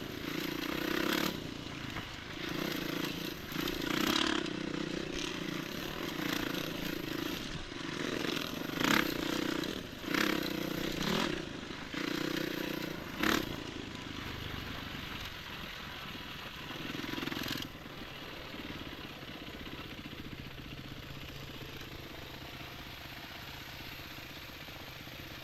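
Enduro motorcycle engine running with repeated sharp knocks and rattles; about eighteen seconds in it drops to a quieter, steady idle.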